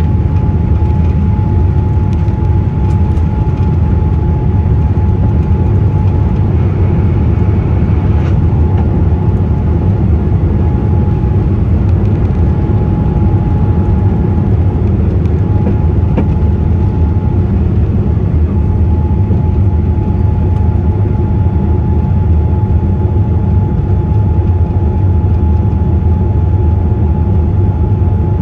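Steady low rumble of a Boeing 787-8 heard inside the passenger cabin, with a thin steady whine above it.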